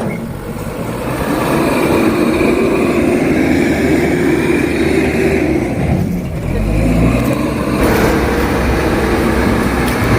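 A small backhoe's engine running as it works, its note shifting with the load and changing about six seconds in.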